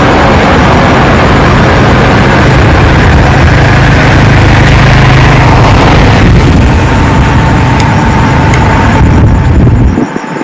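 Loud, steady rumble of a jet airliner's engines, with a faint steady whine about two-thirds of the way through. The noise drops away sharply just before the end.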